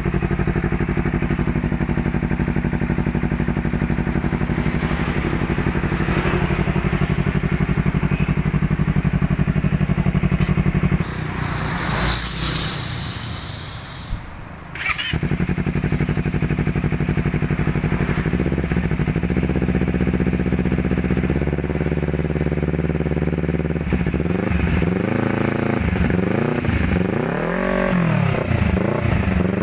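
Honda CBR250RR parallel-twin engine through an F2racing RC S slip-on exhaust, idling steadily. About 11 seconds in it drops away, and a brief high whine is heard while it is down. A few seconds later it fires up again and settles back to idle. In the last several seconds it is blipped repeatedly, the pitch rising and falling with each rev.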